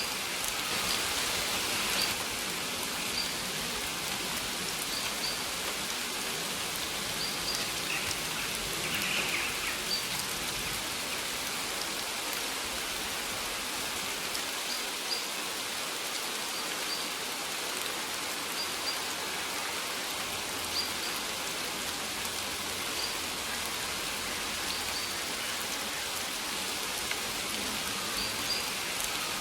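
Steady rain falling, an even hiss of drops, with short high bird chirps recurring every second or two.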